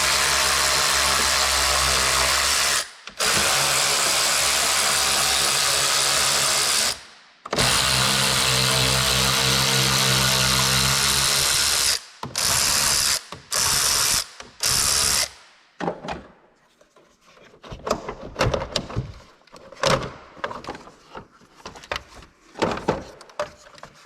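Cordless power tool spinning bolts out: three long steady runs of a few seconds each, then three short bursts. After that come scattered clicks and metal clanks of parts being handled.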